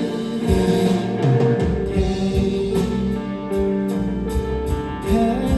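Live band playing an instrumental passage without vocals: sustained guitar chords over a drum kit, with regular cymbal and drum strokes from about two seconds in.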